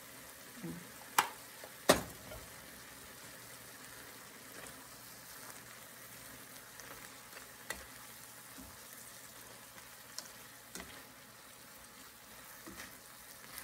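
Cabbage, mushrooms and shrimp sizzling steadily in a frying pan while being stirred with a spoon. Two sharp knocks come about one and two seconds in, with a few fainter clicks later.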